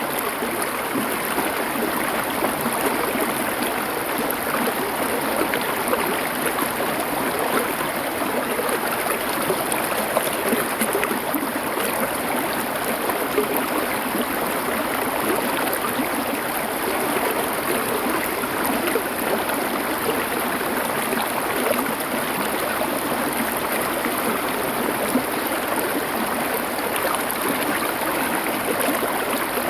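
Stream water flowing and splashing over stones, a steady, even rush with a fine gurgle.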